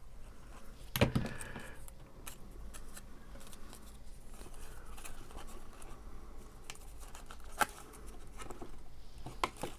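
Quiet handling of cardstock pieces while gluing them: faint rustling and scraping with a few sharp taps, the loudest about a second in and two smaller ones near the end.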